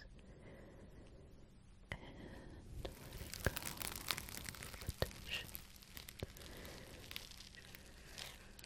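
Close-up ASMR handling sounds: scattered sharp clicks and crackles over a soft rustle, getting busier from about two seconds in.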